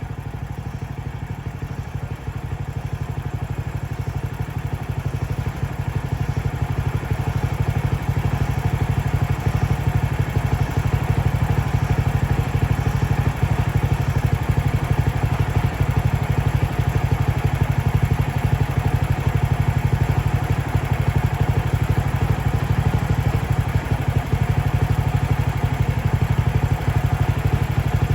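Mechmaxx band sawmill's gas engine running steadily with a rapid low pulsing. It grows louder over the first several seconds, then holds.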